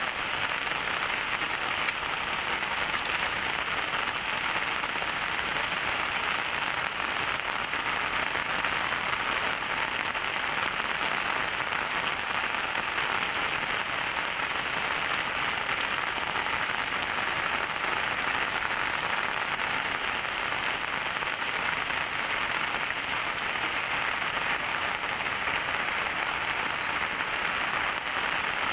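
Heavy rain pouring down, a steady, even hiss of falling water that does not let up.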